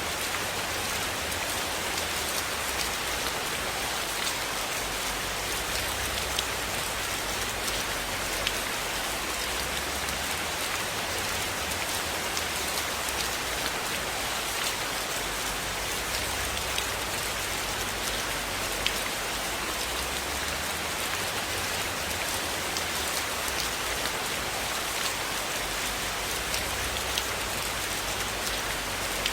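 Steady rain falling on a surface, a dense even patter, with scattered sharp ticks of individual drops or crackles and a soft low rumble that swells and fades.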